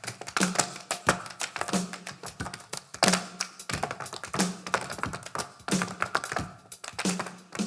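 A percussion ensemble plays a busy rhythm of sharp taps and clicks over a short low pitched beat that repeats about every two-thirds of a second.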